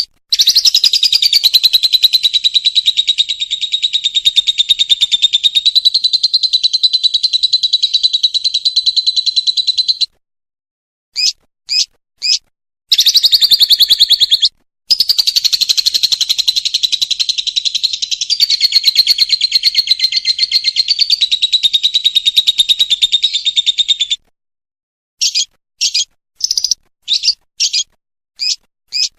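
Lovebird singing its long 'ngekek' trill: a fast rattling run of high chattering notes held about ten seconds, a pause with a few short chirps, then a second long trill of about nine seconds. It ends in a string of short separate chirps.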